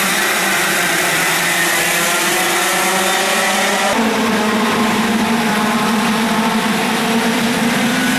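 100cc two-stroke racing kart engine running at high revs, its pitch holding fairly steady with small rises and falls. The sound changes abruptly about four seconds in.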